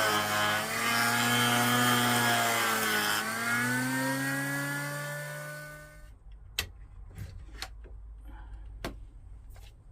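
Electric planer running with a pitched whine that sags twice as it cuts the board edges to true them for a tight glue joint, then winds down about five to six seconds in. A few sharp knocks follow.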